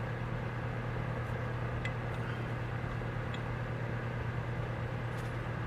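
A steady low hum with a light hiss, broken by a couple of faint light clicks.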